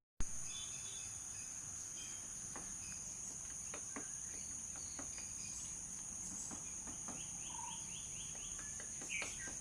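Steady, high-pitched insect drone at two pitches, with a few faint bird chirps scattered through it, including a quick run of short notes a little past the middle.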